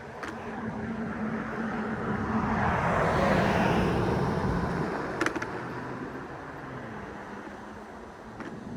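A motor vehicle passing close by: its tyre and engine noise swells to a peak about three seconds in, then fades away. A short sharp click comes a little after five seconds.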